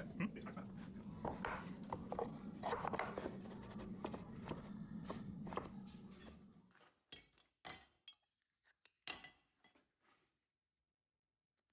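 Small clicks and knocks of parts being handled on a workbench over a steady low hum. About six and a half seconds in the hum stops, and a few separate clicks follow.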